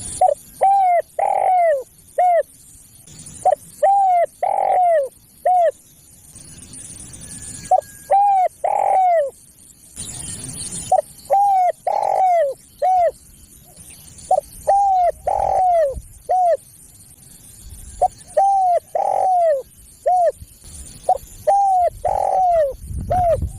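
Spotted dove cooing: repeated phrases of about four low coos each, a short note, two longer swelling coos and a short closing note. A new phrase comes every three to four seconds.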